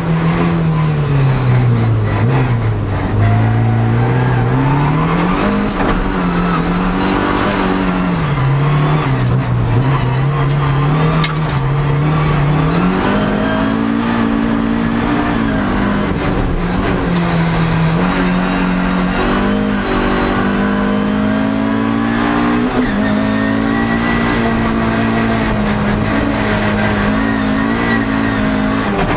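Toyota MR2 (AW11) rallycross car's engine heard from inside the cabin under hard driving, the revs climbing and dropping again and again through acceleration, gear changes and lifts for corners.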